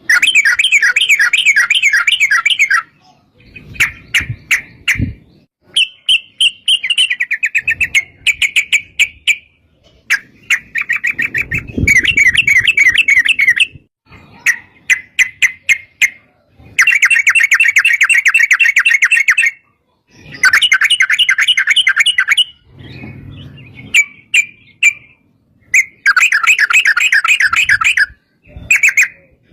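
Yellow-vented bulbul (trucukan) singing in long, rapid bubbling phrases of quick repeated notes, one burst after another with short pauses between them.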